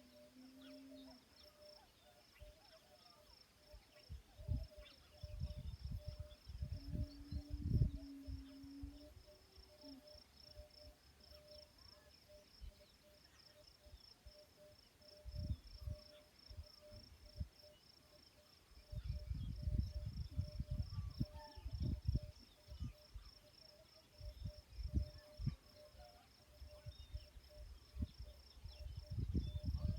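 Crickets chirping steadily in a fast, even pulse, with a second, lower pulsing insect call beneath it. Low rumbling noise comes and goes in several bouts, most strongly about two thirds of the way through.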